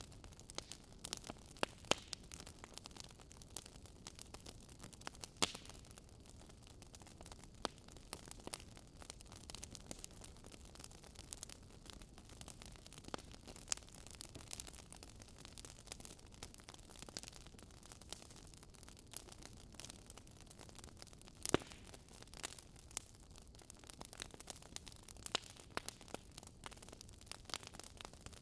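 Wood fire crackling: irregular sharp pops and snaps over a low, steady hiss, with one louder pop about two-thirds of the way through.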